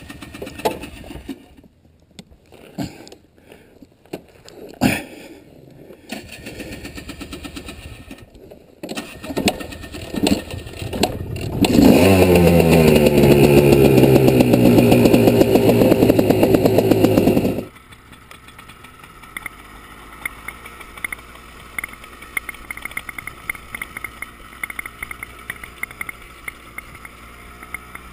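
Off-road vehicle engine: a few knocks and some clatter, then the engine is started and run loud for about six seconds, its pitch settling down before it drops suddenly to a quieter steady running with light ticking.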